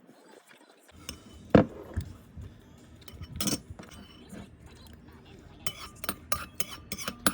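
Metal cutlery clinking against a dish: a couple of separate clinks, then a quicker run of light clinks near the end.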